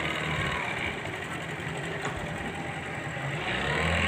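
An engine running steadily at idle, with a low hum that grows louder near the end.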